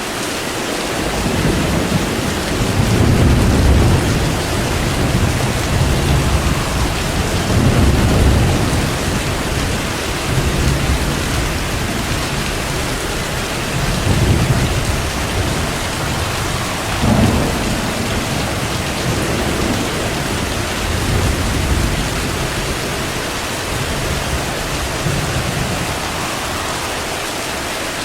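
Steady heavy rain with thunder rumbling again and again, rolling rumbles swelling and fading every few seconds and one sharper crack about two-thirds of the way through.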